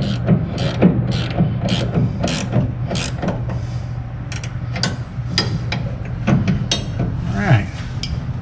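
Hand ratchet wrench worked back and forth in quick strokes, about two a second, clicking as it tightens a fastener; the strokes stop a few seconds in, leaving lighter tool handling.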